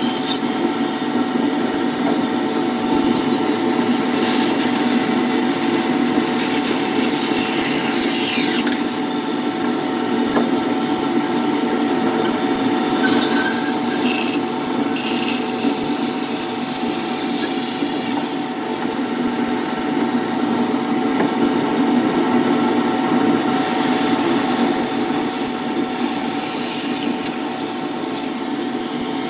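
A power tool working wood, running steadily, with the high hiss of the cutting changing abruptly several times through the stretch.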